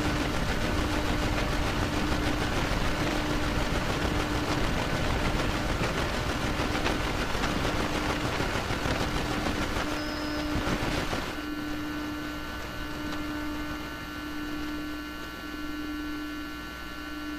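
The two-level GTO-VVVF traction inverter (Toyo Denki) of a Chiba New Town Railway 9100 series train, picked up as electrical noise on a radio: a harsh hissing buzz that, about eleven seconds in, turns quieter and gives way to a set of steady humming tones. A steady tone breaks off and returns throughout.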